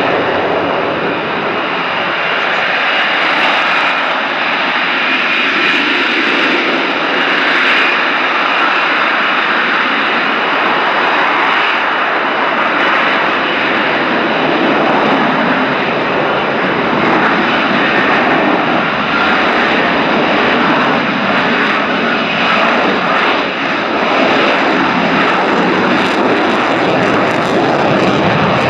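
F-35B Lightning II's single jet engine (Pratt & Whitney F135) running loud and steady, a continuous rushing jet noise with only slight swells in level.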